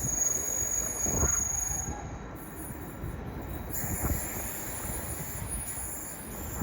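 Greater Anglia Class 745 Stadler FLIRT electric multiple unit pulling out and running away along the line: a steady rumble with a few low knocks from the wheels, and a thin high squeal of wheels on rail in the first two seconds.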